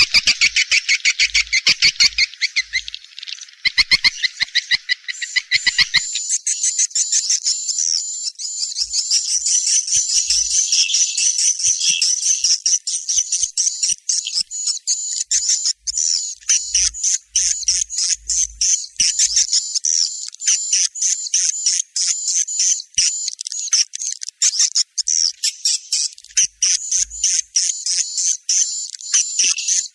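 Swiftlet lure call of the kind played to draw edible-nest swiftlets: fast, dense trains of chirping twitters. For the first six seconds or so the chirps are lower and buzzier, then they give way to a steady run of quick, high chirps.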